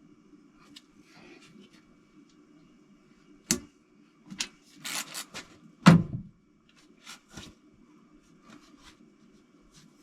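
Hand tools and metal engine parts being handled: scattered clicks and knocks with some rustling, the loudest a heavy knock about six seconds in, over a faint steady low hum.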